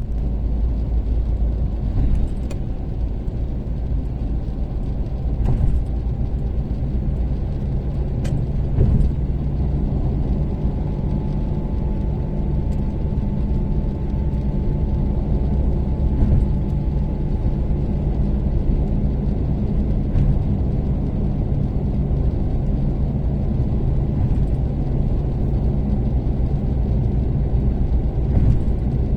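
Toyota Caldina's 3S-GTE turbocharged four-cylinder engine and tyres heard while cruising at a steady expressway speed: an even low drone and road rumble, with a few light knocks now and then.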